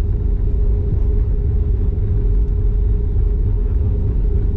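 Airbus A320 heard from inside the cabin: a steady low rumble of engines and airflow with a constant hum.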